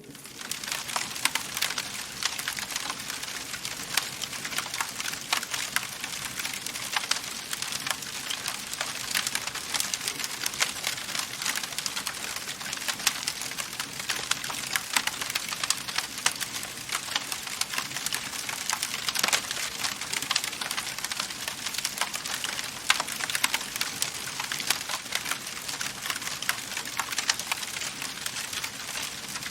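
Wood fire crackling in a fireplace: a dense, steady stream of small snaps and pops with a few louder cracks.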